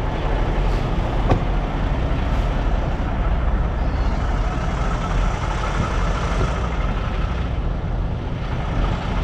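Semi-truck's diesel engine running at low speed with a steady low rumble, and a single sharp click about a second in.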